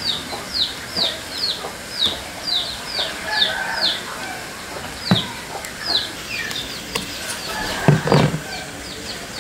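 A bird chirping over and over in short, high, falling chirps, about two a second. Dull thuds from the duck carcass being handled on the chopping board come about five seconds in and, louder, about eight seconds in.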